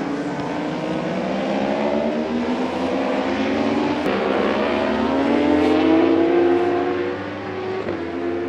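Endurance-racing superbike engines at high revs, rising in pitch as the bikes accelerate, loudest about six seconds in and then dropping back.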